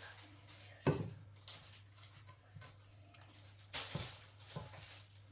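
A few knocks of a utensil against a cooking pot while biryani is layered, the loudest about a second in and another near four seconds, over a steady low hum.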